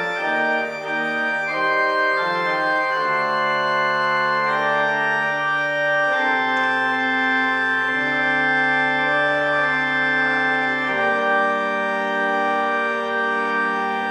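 Organ playing slow, sustained chords that change every second or two, with a deep bass note sounding from about eight seconds in until a chord change near eleven seconds.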